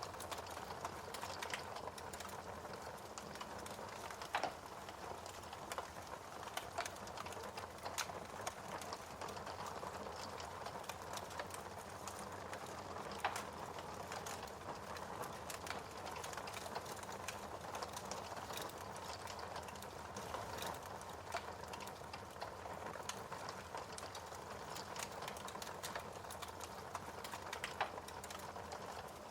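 Fire burning in a fireplace: a steady hiss with frequent sharp crackles, and a few louder pops scattered through.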